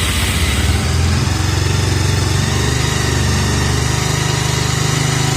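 Motorcycle engine idling steadily right after catching on the electric starter, a cold start after standing unused for about a month.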